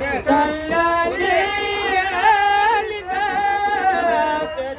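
Male vocals singing a traditional Yemeni madih nasheed, a drawn-out ornamented melody in two long phrases with a short breath near the end, over a steady low hum.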